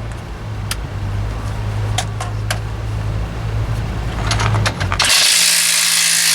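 Hand tools clicking and clinking against metal over a steady low hum, then a power tool runs for about two seconds near the end, taking a fastener loose again.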